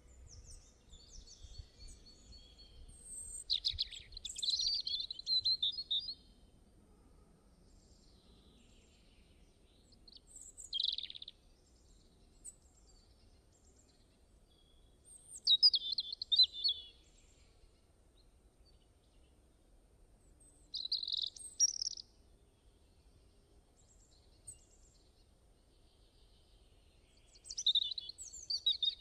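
A bird singing short, high, chirping phrases, about five in all, with pauses of several seconds between them, over a faint low background rumble.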